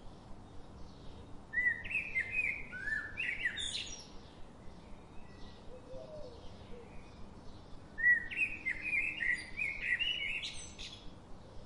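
Birdsong: two phrases of quick, gliding chirps, each lasting about two seconds and ending on a higher note, with a faint lower call between them.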